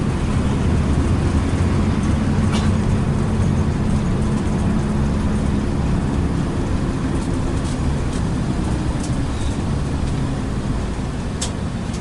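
Intercity bus running along the road at an easy speed: a steady low engine drone over constant road and tyre noise. A short sharp click comes about two and a half seconds in and another near the end.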